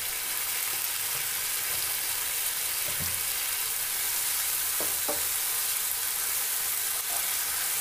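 Onions and ginger-garlic paste sizzling steadily in hot oil in a frying pan while being stirred with a wooden spatula, with a few light knocks of the spatula against the pan.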